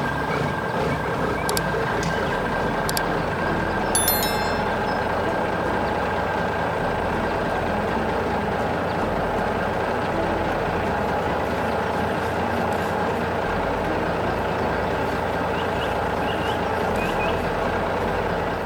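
Heavy construction vehicle engine running steadily, a dense rumble with a few constant tones, with a few short clicks in the first four seconds.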